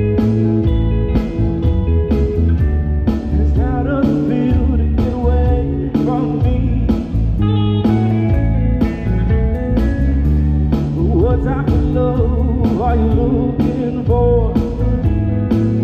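Live indie rock band playing an instrumental passage: electric guitar lines with bending notes over bass guitar and a steady drum beat of about two hits a second.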